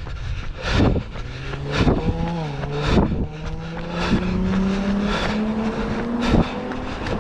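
A motor vehicle's engine hum, with a steady pitch that rises slowly, heard from about a second in until near the end. Running footfalls on the trail come as regular thuds about once a second.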